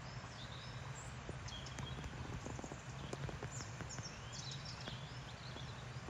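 Songbirds chirping and singing in a spring morning chorus, several short calls and trills overlapping, over a steady low hum, with a few faint ticks a couple of seconds in.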